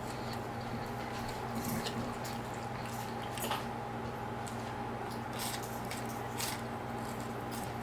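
A person chewing chicken nuggets, with scattered wet squelches and clicks from the mouth over a steady low hum.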